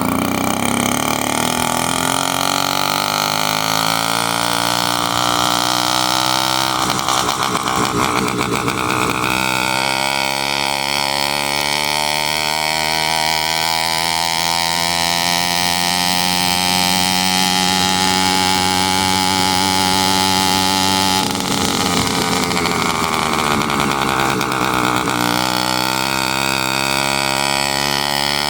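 Small motorized-bicycle engine running under way, its pitch climbing as it speeds up, dropping sharply about two-thirds of the way through as the throttle is eased, then climbing again. A steady high-pitched whine runs over the engine throughout.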